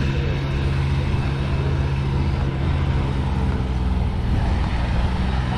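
An engine running steadily nearby, a constant low drone with no change in speed.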